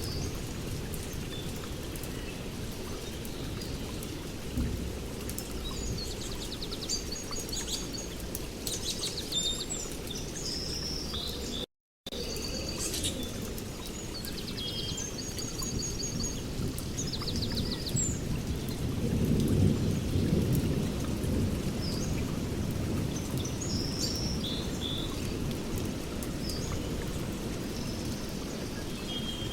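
Steady rain with low rolling thunder, and birds chirping and trilling over it. The thunder swells about two-thirds of the way through. The sound cuts out completely for a moment a little before the middle.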